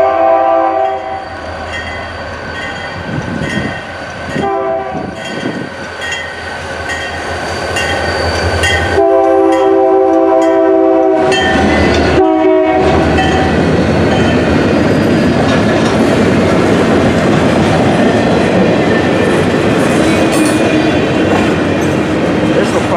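Train horn with several chords: a long blast ending about a second in, a short one at about four and a half seconds, a long one from about nine seconds, and a short one just after. After that, a train passes close by, its wheels rumbling and clattering over the rails.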